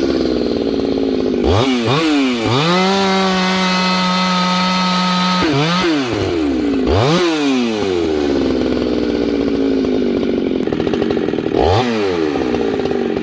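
Husqvarna 390XP two-stroke chainsaw engine being revved: several quick throttle blips, a steady high-rev hold of a couple of seconds, then revs sagging gradually before one more quick blip near the end. The saw is running on a replacement carburetor under test and tuning.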